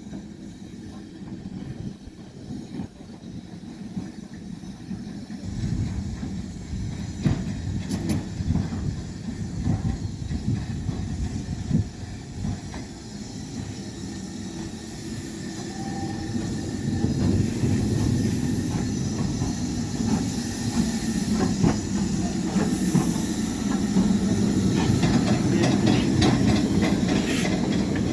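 Ivatt Class 2 2-6-2T steam tank locomotive running on the line with rumbling and clanking, growing louder through the second half as it draws nearer.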